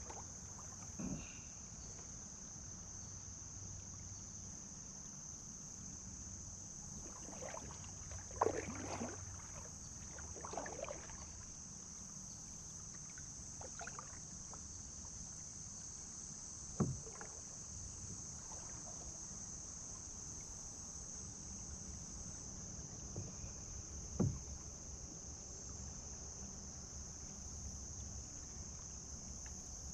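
Kayak paddling on a river: scattered paddle splashes, busiest about a third of the way in, and a few sharp knocks, over a steady high-pitched hum.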